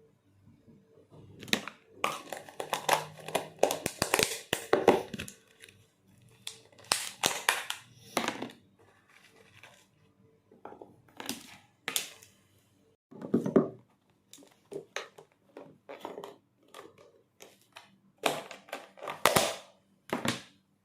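Irregular handling noises: crinkling and rustling with clicks and knocks, coming in clusters with short pauses between them.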